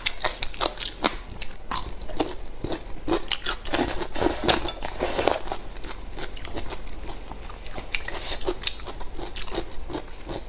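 A person chewing and crunching food close to the microphone: a steady run of small crisp bites and mouth clicks.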